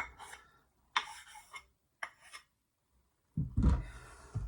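Sharpening stones being handled: a click, two short scraping rasps, then a heavy thump with a scrape near the end.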